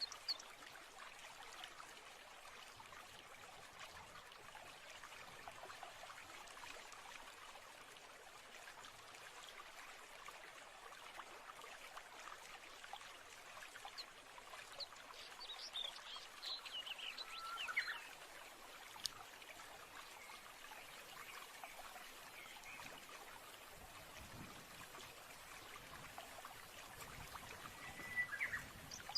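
Nature-sounds ambience: a faint, steady trickle of running water with occasional birdsong, a run of falling chirps about halfway through and a short whistle near the end.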